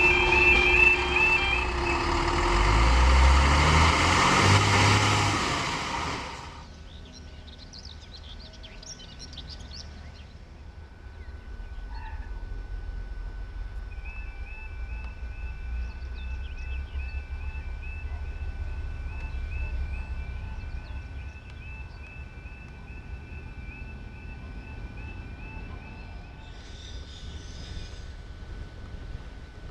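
A train passes loudly, its engine note rising, then dies away about six seconds in. From about fourteen seconds a warbling electronic alarm sounds steadily for some twelve seconds over a quiet background.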